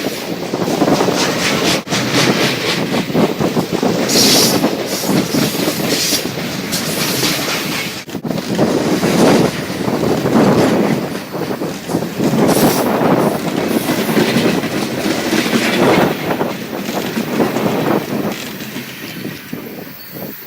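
CSX freight train's cars rolling past, the wheels clattering over the rail joints in a pulsing rumble, with a brief high squeal about four seconds in. The sound thins and drops off near the end as the train draws away.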